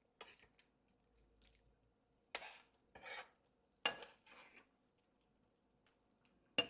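A spoon clinking and scraping against a cooking pot of steamed fish in gravy. There are a handful of separate strokes, with the sharpest clink near the end.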